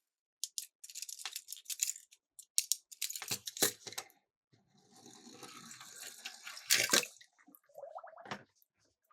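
Small die-cast toy cars clattering and clicking down a plastic track, then a stretch of water splashing with a loud clatter near the end of it.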